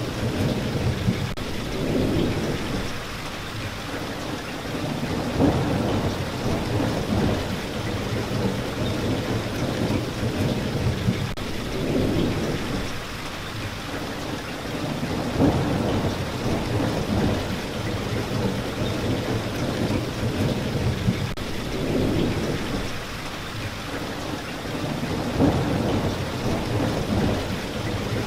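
Steady rain, with low rumbling swells that rise and fade every few seconds.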